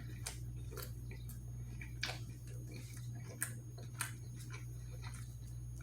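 Scattered small clicks and crinkles, about six of them spread unevenly, from a gyro sandwich and its wrapping being handled close to the microphone, over a steady low hum.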